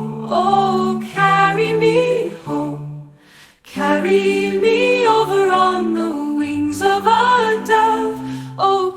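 AI-generated a cappella singing of a gospel-style spiritual, with sung melody over held low notes in harmony. The singing breaks off briefly about three seconds in.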